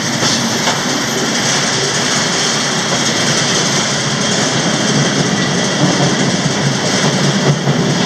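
Running noise of a moving freight train heard from the end platform of a covered hopper car: steel wheels on the rails and the cars rattling, a steady loud rumble.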